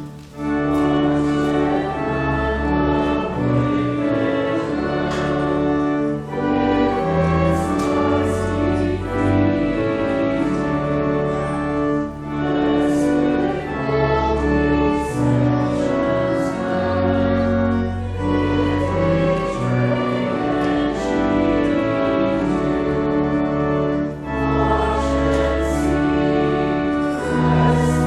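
A hymn sung by voices with organ accompaniment, in phrases about six seconds long with a brief break between each, over long-held bass notes.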